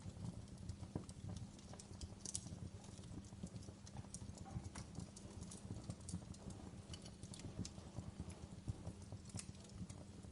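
Logs burning in a fireplace, crackling with irregular sharp pops and snaps over a low, steady rumble of the fire.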